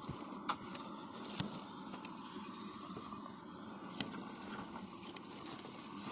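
Night-time rainforest insects droning on one steady high note, with a few sharp clicks or snaps scattered through.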